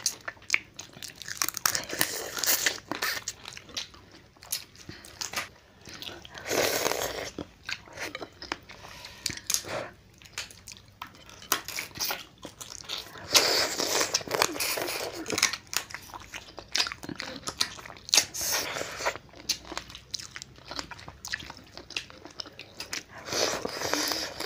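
Crab shells being bitten and chewed close to the microphone: repeated crunching and crackling with wet chewing sounds, louder in several short spells.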